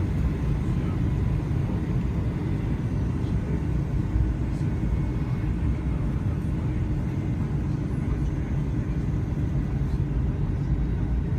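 Steady low rumble of a Boeing 757-200's engines and airflow heard from inside the passenger cabin, with no distinct events or changes in level.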